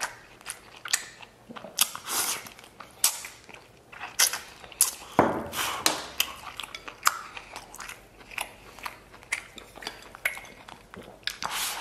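Close-miked chewing of tender red-braised lamb and rice, with frequent irregular wet mouth clicks and smacks.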